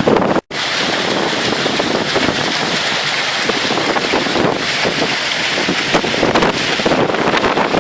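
Strong wind buffeting the microphone as a loud steady rushing noise, with a brief dropout about half a second in.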